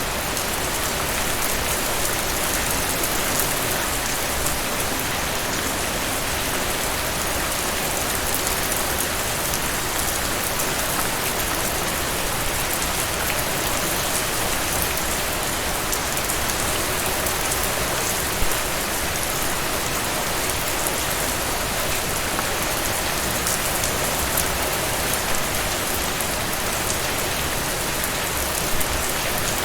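Heavy rain falling steadily, a dense even hiss of rain on surfaces, with a few louder drops or spatters now and then.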